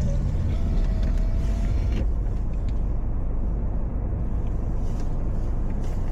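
Car driving on a snowy road, heard from inside the cabin: a steady low rumble of engine and tyres, with a faint click about two seconds in.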